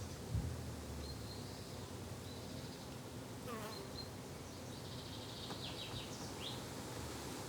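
Flying insects buzzing steadily with a low drone, garden ambience. There is a soft low thump about half a second in and a few short high chirps scattered through.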